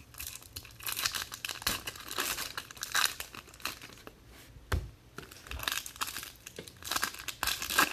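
Trading-card pack wrappers crinkling and tearing as Topps Chrome packs are ripped open by hand, in quick irregular bursts, with a single soft knock about halfway through.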